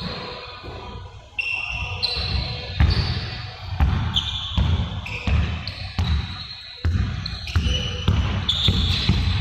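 Basketballs bouncing on a gym floor, with irregular thumps about once or twice a second and short, high sneaker squeaks in between.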